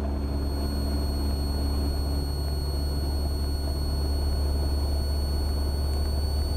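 Cessna 172R's four-cylinder Lycoming engine and propeller running steadily at full power as a low, even drone during a short-field takeoff roll.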